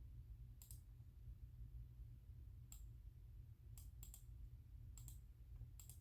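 Faint, sparse clicks from a computer keyboard and mouse, about six, some doubled, spaced irregularly, over a low steady hum.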